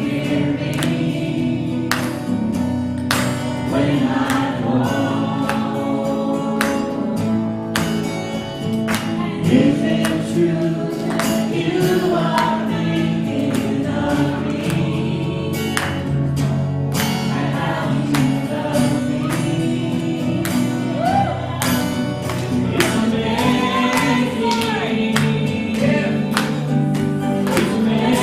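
Gospel worship music: a choir of voices singing over a band, with drums keeping a steady beat.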